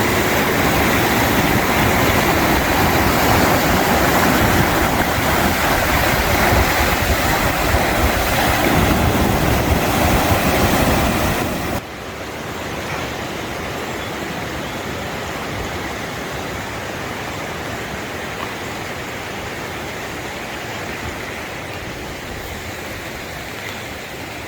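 Steady rush of the Sheep River's fast-flowing water. About halfway through it drops suddenly to a quieter, thinner rush.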